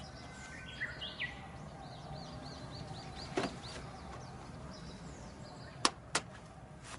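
A bird chirping: a rising call, then a quick run of short, high, repeated chirps at about four a second, over a steady low background noise. Two sharp clicks come close together near the end.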